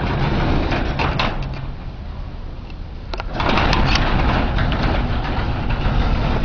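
Blizzard wind buffeting the microphone with a heavy low rumble and rushing noise; it eases briefly about two seconds in, then gusts up louder about a second later.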